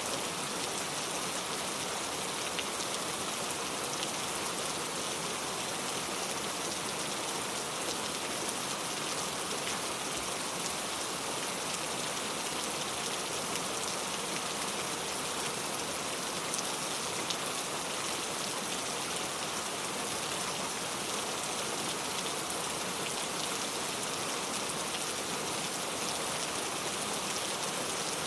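Steady rain falling, a dense even hiss of drops with faint scattered patters.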